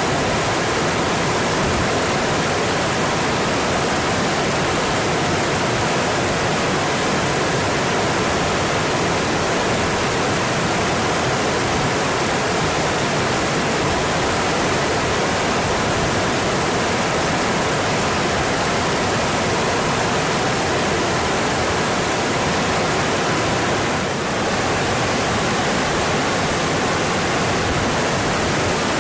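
Mountain stream rushing steadily, a continuous full, even sound of flowing water with no breaks.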